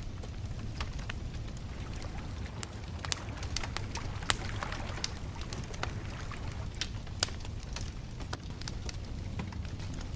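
Wood bonfire crackling: irregular sharp pops and snaps over a low, steady rumble of the flames, with the loudest snap about four seconds in.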